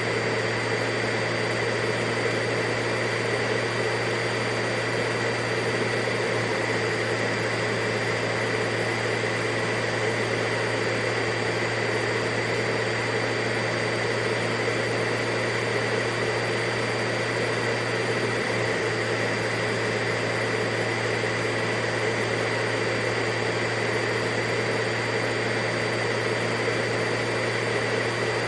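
Vacuum cleaner running steadily: a constant rushing hiss over a low hum, with a high whine that holds one pitch.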